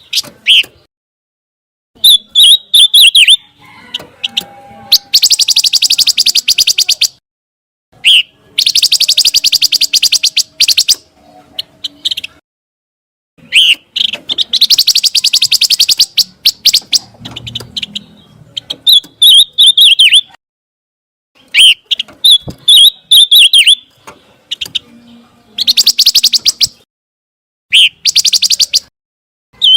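Song of a pancawarna bird, in loud repeated phrases with short gaps between them. It alternates fast buzzy trills of rapid clicking notes lasting about two seconds with short, wavering high whistles.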